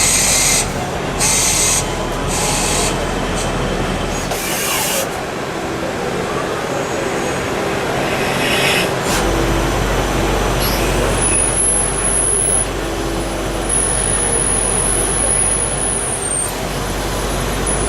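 CNC lathe running and turning metal: a dense, steady machining noise with a thin high whine that comes and goes several times in the second half.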